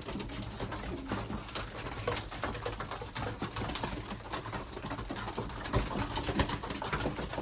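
Racing pigeons cooing, with many small clicks and taps of the birds moving about.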